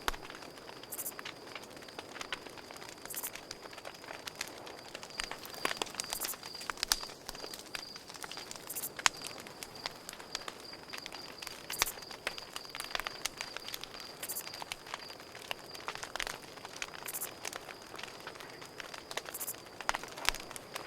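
Campfire crackling with irregular snaps and pops, over a steady high cricket trill that fades out late on, and short very high insect chirps every couple of seconds.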